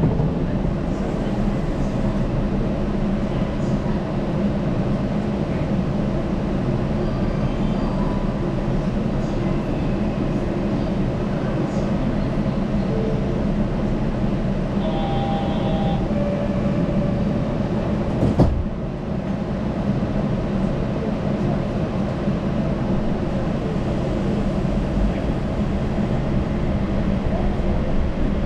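Yurikamome rubber-tyred automated train running steadily, heard from inside the front of the car as a continuous rumble and hum. A brief high tone sounds about fifteen seconds in, and a single sharp click comes a few seconds later.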